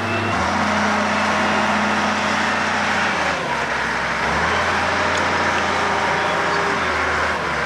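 A truck engine idling steadily, its low hum shifting slightly a few times, over a dense outdoor hiss.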